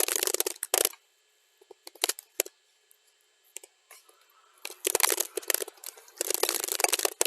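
Keyboard typing sped up to double speed: fast runs of key clicks, thinning to a few scattered keystrokes for about four seconds, then rapid typing again from about halfway through.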